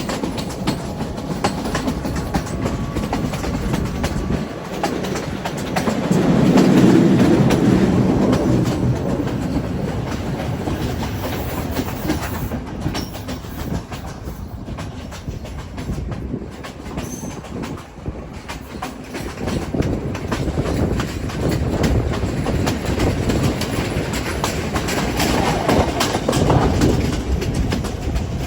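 Passenger train running along the track, its wheels clacking over the rail joints under a steady rumble. The rumble swells louder a few seconds in and again near the end.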